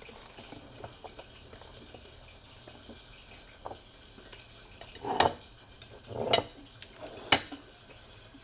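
Cooking utensils and dishes knocking and clattering during kitchen work: faint scrapes and stirring sounds, then three sharp knocks in the second half.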